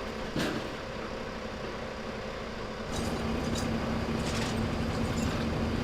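A steady engine hum over background noise. About three seconds in, the hum grows louder and lower, and a few faint clicks can be heard.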